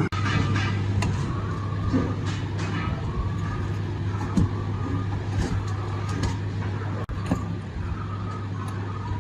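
Steady low machine hum, with scattered light clicks and knocks over it.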